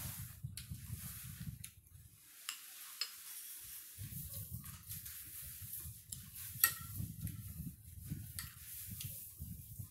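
Close-up chewing and mouth sounds while eating, broken by light clicks and clinks of a spoon and fingers on ceramic bowls and plates. The chewing pauses about two seconds in and resumes around four seconds. The sharpest clink comes about two-thirds of the way through.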